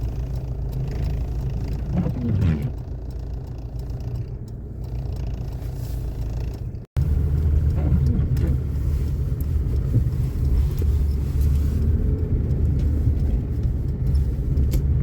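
Car driving, heard from inside the cabin: a steady low engine and road rumble. About seven seconds in the sound cuts out for an instant and returns louder.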